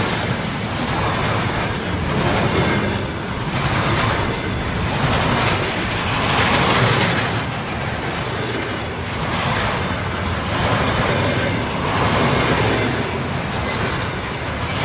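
A train passing close by: a loud, continuous rolling rumble and rush that swells and eases every second or so as the cars go past.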